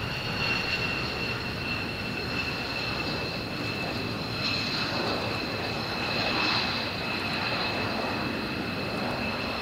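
Military jet aircraft engine running, a steady rush of noise with a high two-note whine, swelling slightly twice midway.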